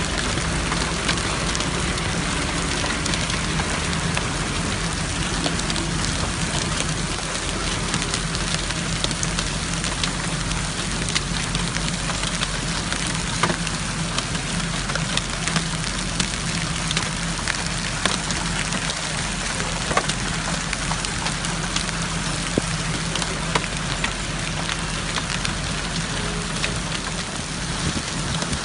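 Steady rain, a dense hiss with many separate drops clicking as they strike, over a steady low hum.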